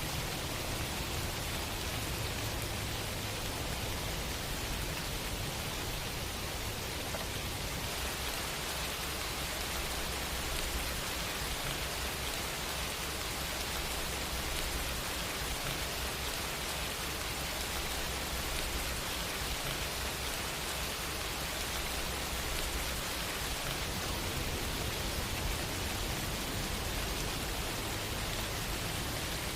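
Steady rain falling, an even continuous hiss of rainfall on surfaces.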